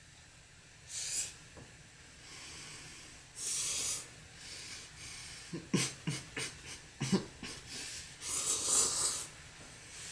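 A person eating spicy instant ramen noodles: short hissing breaths or slurps about a second in, near the middle and near the end, with a quick run of wet mouth clicks from chewing in between.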